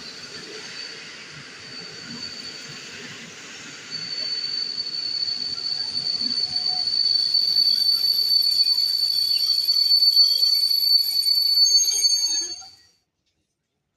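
Train wheels squealing: a steady high-pitched squeal over the rumble of the passing train, growing louder about four seconds in. The sound cuts off suddenly near the end.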